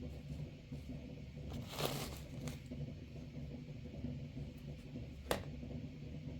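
Steady low rumble, with a short crackling rustle about two seconds in and a single sharp click a little after five seconds.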